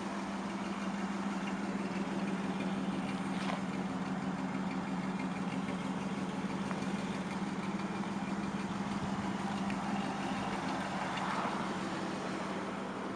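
A 1967 Ford Mustang's 289 small-block V8 idling steadily.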